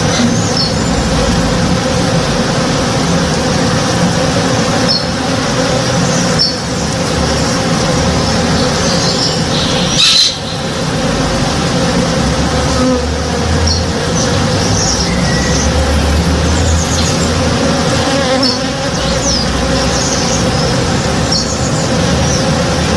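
Many honey bees buzzing as they forage in a flowering tree: a steady, dense hum. Brief high chirps come now and then, with one sharp click about ten seconds in.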